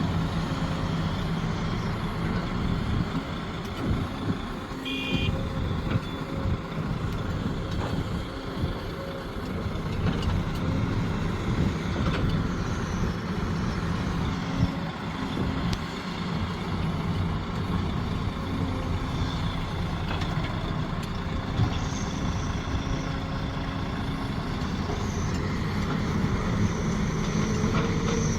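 Sumitomo SH370LHD-6 excavator's diesel engine running steadily under working load, with a few knocks and a brief high tone about five seconds in.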